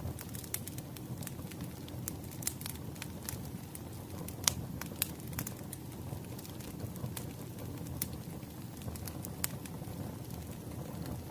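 Log fire crackling: a steady low rumble with irregular sharp pops and snaps, the loudest about four and a half seconds in.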